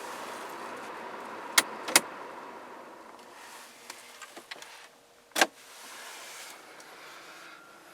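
A small electric motor whirring steadily inside the car's cabin, fading after about three seconds. There are sharp clicks at about one and a half, two and five and a half seconds in, the last the loudest.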